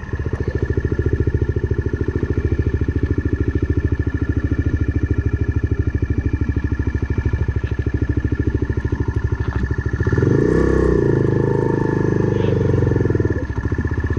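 Single-cylinder motorcycle engine running at idle with an even, rapid beat; about ten seconds in the note rises for a few seconds, then drops back to idle.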